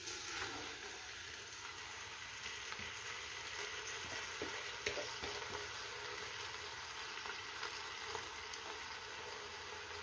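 Marinated chicken sizzling in ghee in a steel pot over fried onions, tomatoes and mint: a low, steady hiss with a few scattered faint pops.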